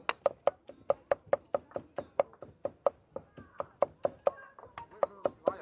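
Knife chopping food on a cutting board in a steady, quick rhythm of about four to five strokes a second.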